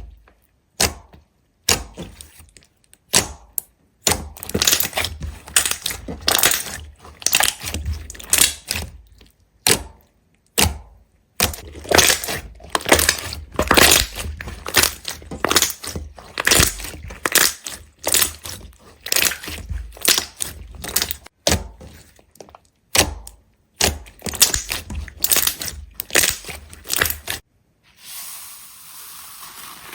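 Brittle material being crushed and broken: a dense, irregular run of sharp cracks and crunches with short pauses between clusters, giving way to a brief steady hiss near the end.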